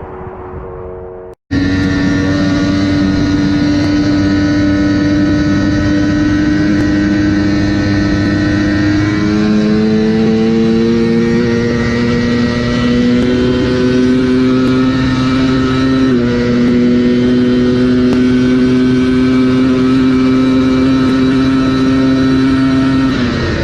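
Superbike engine held at high revs under full throttle on a top-speed run, its pitch creeping slowly upward, with wind rush; it starts abruptly after a brief silent cut about a second and a half in. The pitch steps slightly around a third and two-thirds of the way through, and drops near the end as the throttle comes off.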